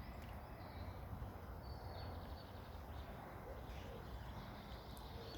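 Faint outdoor background: a steady low rumble with a few faint bird chirps about two seconds in.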